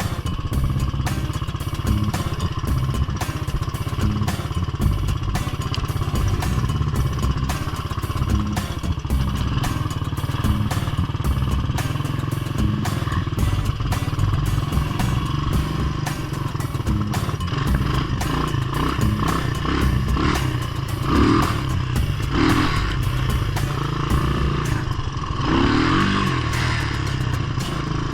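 Small single-cylinder four-stroke off-road engine running under way on a ride, with a few brief rises in revs in the later seconds.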